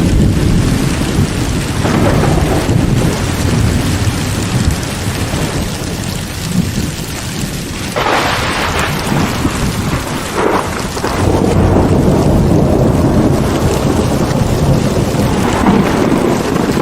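Thunderstorm: heavy rain falling steadily under rolling thunder, with a sharper thunderclap about eight seconds in and a smaller one a couple of seconds later.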